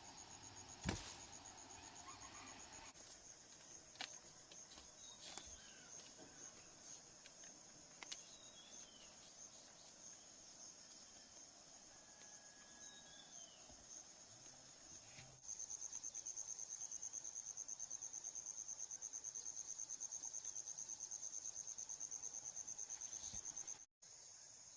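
A chorus of forest insects trilling steadily at a high pitch. About halfway through, a louder insect call with a rapid pulsing buzz starts up and carries on until a brief cut near the end. A single sharp click comes about a second in.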